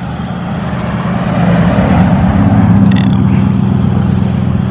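Car engine running with road and wind noise, growing louder about one and a half seconds in as the car accelerates.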